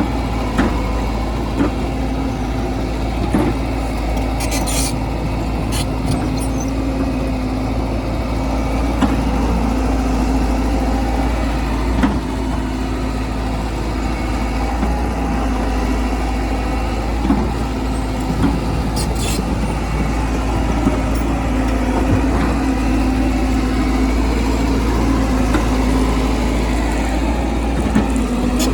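Heavy earthmoving machine's engine running steadily under load, with a deep rumble and a constant hum, and scattered short metallic knocks and clanks.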